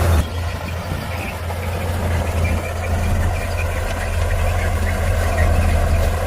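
Heavy diesel earthmoving machinery running steadily with a deep, even engine hum; the higher hiss drops away abruptly just after the start.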